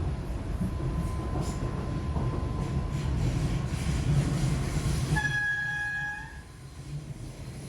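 DART Class 8100 electric train running, a low rumble with a faint steady whine. About five seconds in, a single horn tone sounds for about a second, and the rumble then drops.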